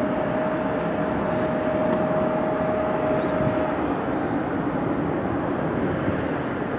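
Jet airliner's engines at takeoff power as it departs: a steady roar with a thin whine that stops about three and a half seconds in.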